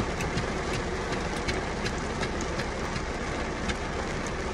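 Heavy rain drumming on the car's roof and windows, heard from inside the cabin: a steady hiss scattered with sharp individual drop hits.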